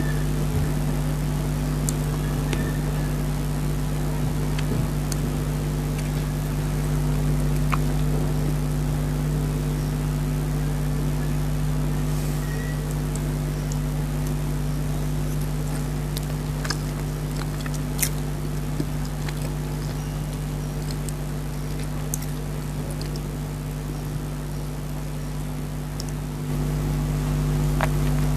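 A steady low mechanical hum runs throughout and steps up a little near the end. Scattered faint clicks and smacks from someone eating sit on top of it.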